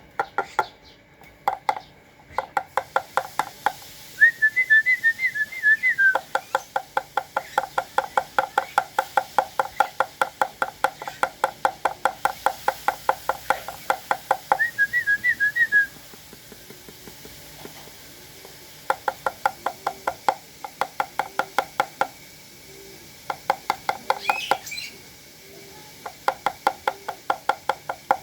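Spotted dove pecking at its feed: rapid, even taps, about four to five a second, in long runs with short pauses. Twice a brief warbling whistle sounds over the pecking.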